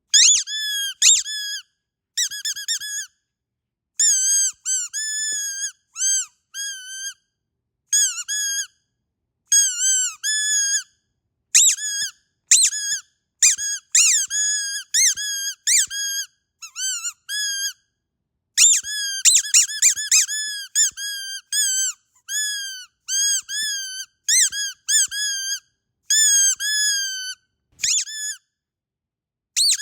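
Squeaky dog toy squeezed over and over, giving runs of short, high squeaks that dip and bend in pitch, with brief silent gaps between the runs.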